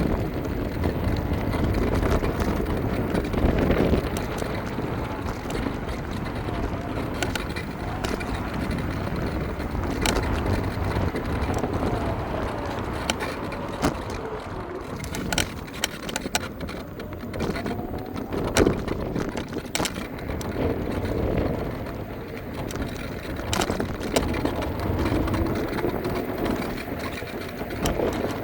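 Riding on an electric scooter: steady wind and road rumble, with scattered clicks and knocks as it goes over bumps and a faint whine that rises and falls now and then.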